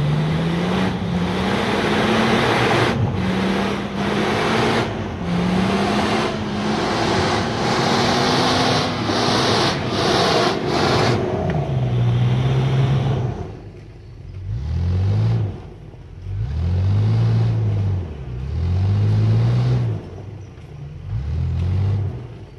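Off-road 4x4's engine revving hard under load over a loud hiss, its note climbing several times. From about halfway on it is revved in short bursts roughly every two seconds, rising and falling each time.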